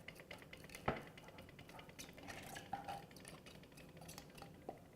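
Faint clinking and scraping of a utensil against a bowl and dishes, with one sharper knock about a second in, as chopped onion is scraped into a bowl of chicken.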